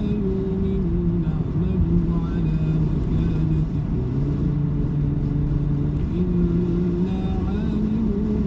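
A motor vehicle running, a steady low rumble with an engine hum that shifts up and down in pitch every second or so.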